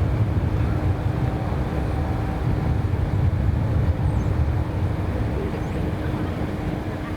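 Jet airliner engines rumbling with a steady underlying hum, slowly fading.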